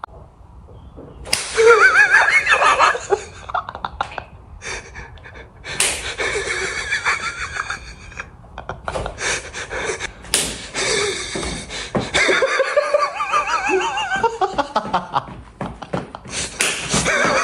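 High-pitched laughter and squealing voices in several bursts, with a few sharp slaps or clicks in the gaps.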